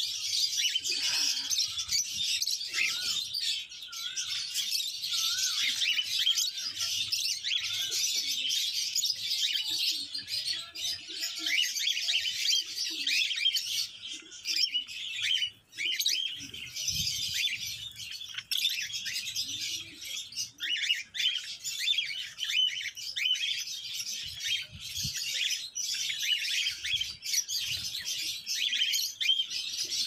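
Pet birds chirping and chattering without a break, many high calls overlapping.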